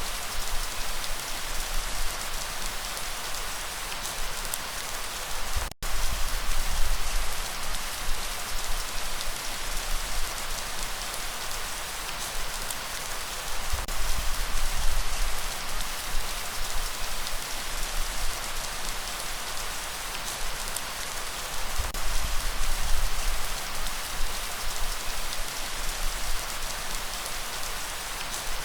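Steady rain falling, an even hiss of drops, with a split-second dropout about six seconds in.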